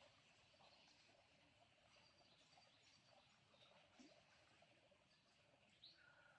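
Near silence: faint outdoor ambience with a few faint, short bird chirps, one rising chirp near the end.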